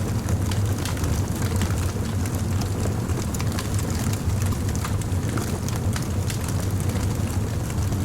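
Fire crackling, with frequent small sharp pops over a steady low rumble.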